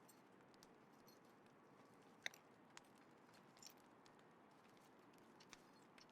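Small wood fire crackling faintly, with scattered light pops and one sharp pop about two seconds in.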